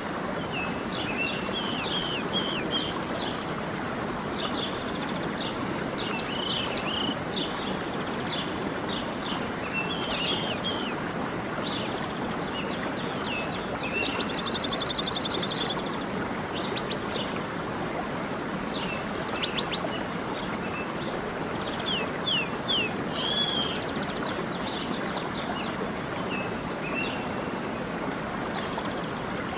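Steady rush of a flowing stream with songbirds chirping and calling over it, in short notes and trills, including a fast buzzy trill about halfway through.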